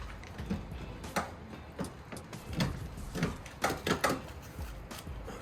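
A series of irregular short clicks and light knocks, about a dozen over several seconds, over a low steady hum.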